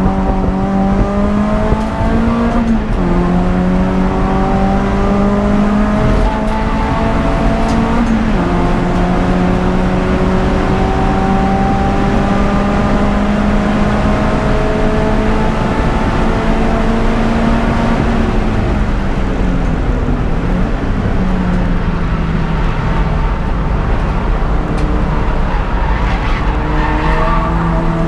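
Peugeot 206 GTI race car's four-cylinder engine pulling hard at racing speed, its note climbing slowly and dropping at upshifts about 3 and 8 seconds in. After a long climb it falls and wavers about two-thirds through as the car slows and changes down, then picks up again.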